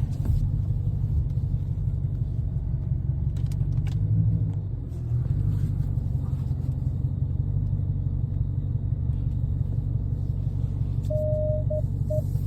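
Dodge R/T's 5.7-litre HEMI V8 rumbling at low speed, swelling briefly about four seconds in and easing off just after. A steady higher beeping tone comes in on and off near the end.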